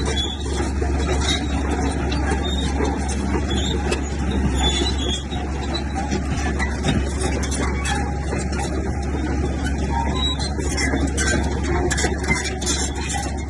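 Heavy diesel earthmoving machinery running steadily: a constant low engine drone with rattling, clanking noise over it.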